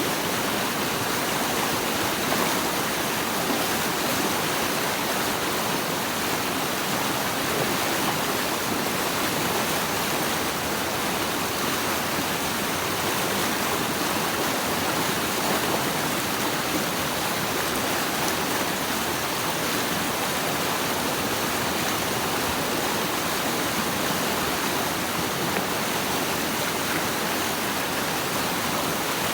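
Running water rushing steadily, like a stream or small waterfall, with no change or separate sounds.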